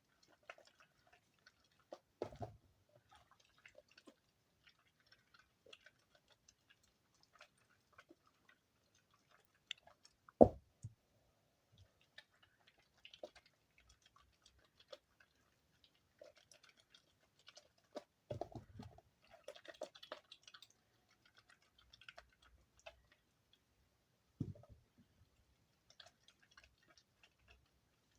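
Damp soap shavings crunching and crackling as they are kneaded and pressed together by hand, with a few soft knocks, the loudest about ten seconds in.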